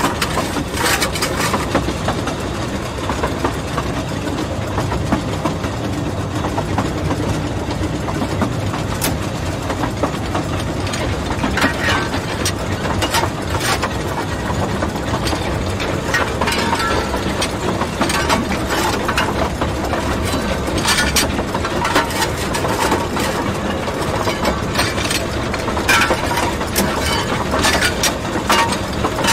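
Narrow-gauge Talyllyn Railway train on the move: a steady running rumble with frequent irregular clicks, knocks and rattles.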